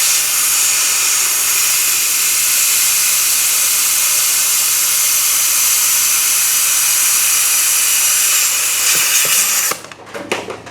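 Compressed shop air hissing steadily from an air hose into a lawn mower tire's inner tube, inflating it to push the tire out onto its beads. The hiss cuts off suddenly about a second before the end, followed by a few light knocks.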